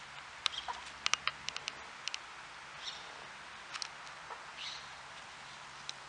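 Scattered sharp high clicks, several close together in the first two seconds, and a few short high bird chirps.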